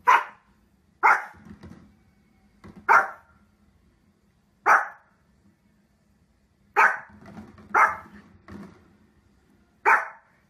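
A small fluffy dog, a Pomeranian, gives seven short, sharp barks, one to two seconds apart.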